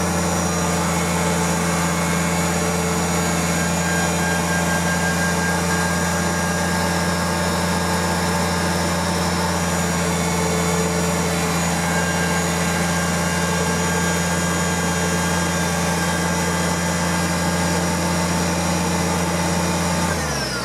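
Kubota tractor's diesel engine running at a steady speed, then dropping sharply in engine speed near the end.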